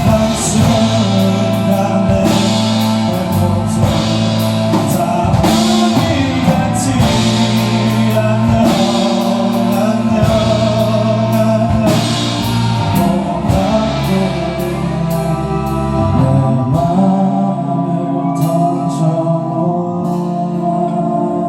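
Live rock band of drums, bass, electric guitars and keyboard playing a long instrumental outro, with steady sustained chords under repeated cymbal strikes. The cymbal strikes thin out in the last few seconds as the music winds down.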